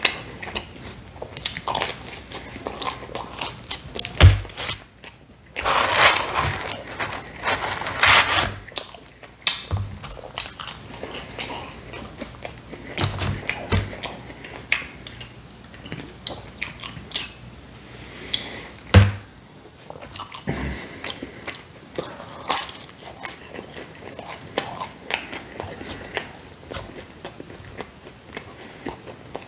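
Close-miked chewing and biting of pepperoni pizza, with many small wet clicks and crunches. A louder rushing noise runs for about four seconds starting about five seconds in, and there are two sharp low thumps, one about four seconds in and one near the middle.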